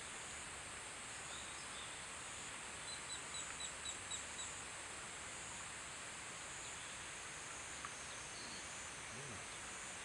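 A bird gives a quick run of about seven short, high-pitched calls, evenly spaced, over a steady background hiss.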